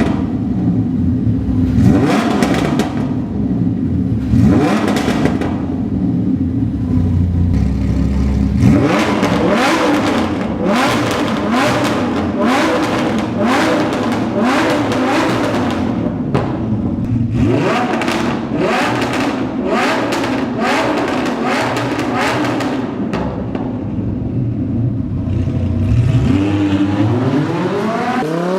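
Lamborghini Huracán LP610-4's V10 engine through an Armytrix valved exhaust, revved again and again, the pitch sweeping up and falling back with a crisp, rasping edge. Near the end a long rise in pitch begins as the engine pulls up through the revs.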